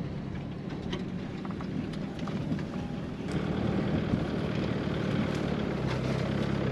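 A vehicle engine running steadily with a low hum, which gets louder about three seconds in.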